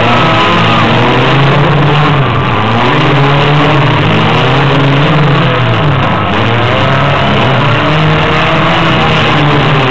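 Several small-car engines revving loudly at the same time in a mini-car demolition derby, their pitches rising and falling unevenly against one another as the cars push and shove.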